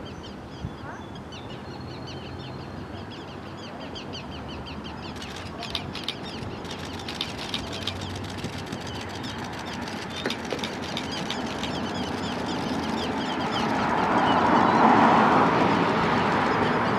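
Birds calling: a fast run of short, high-pitched calls repeated over the first ten seconds or so. A rushing noise then swells to its loudest about fifteen seconds in and eases off.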